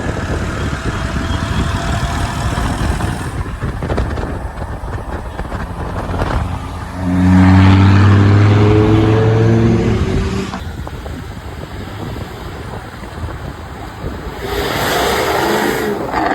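Sports car engines running and accelerating, in short cut-together clips with sudden changes between them. The loudest stretch, starting about seven seconds in, is one engine pulling hard with its pitch slowly rising.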